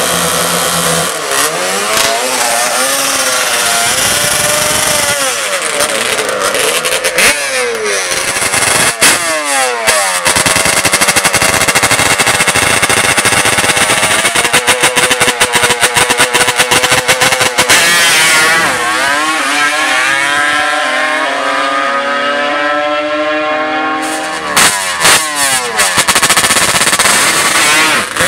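Racing ATV engines revving hard, the pitch rising and falling over and over. A rapid stuttering stretch comes in the middle, and later a long rising pull as a machine accelerates.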